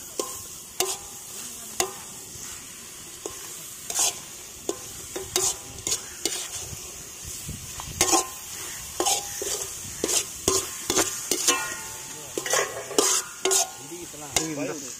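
Goat blood fry sizzling in a large iron kadai while a metal ladle is stirred through it, scraping and knocking irregularly against the pan.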